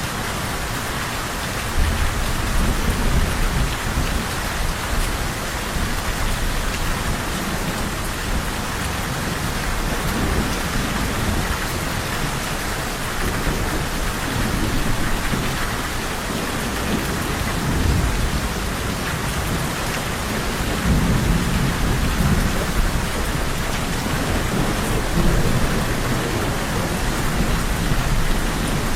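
Steady rain falling, with low rolling thunder rumbling several times, first about two seconds in.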